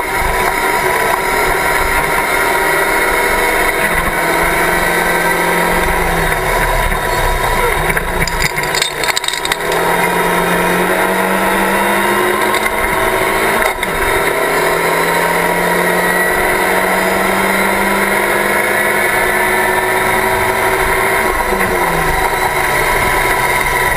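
Locost open-cockpit race car's engine heard from on board, running continuously; its revs drop sharply about 6, 9 and 21 seconds in and climb slowly again in long pulls between, over steady noise of wind and road.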